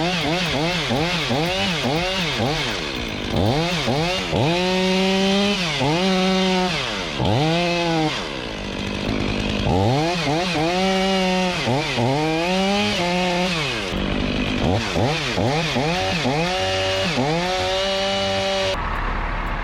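Chainsaw engine revving and dropping in pitch over and over as it cuts, about two swings a second at first and then in slower swells, stopping near the end.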